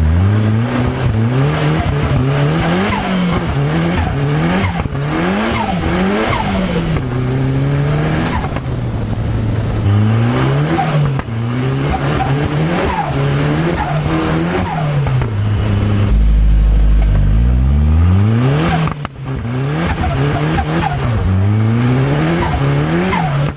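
Turbocharged Nissan CA18DET four-cylinder engine of a Locost kit car revving up and down over and over, with a short lift-off about three-quarters of the way through.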